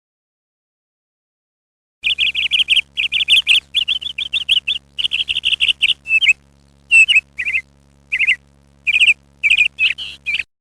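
Birds chirping in quick runs of short, high notes, starting about two seconds in after silence and breaking into shorter bursts with gaps toward the end. A faint low hum sits under the chirps.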